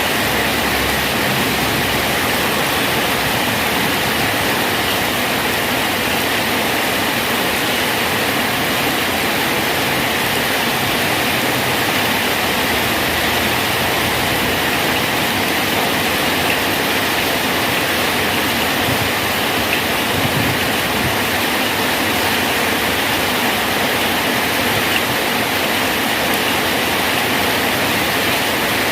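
Steady heavy rain falling and splashing on a bridge, a dense even hiss with no breaks.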